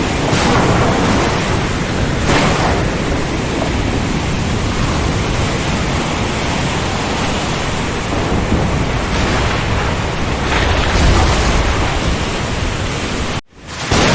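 Steady heavy rain, swelling into heavier bursts every few seconds, with a low rumble about eleven seconds in. Near the end the sound drops out for an instant and then resumes.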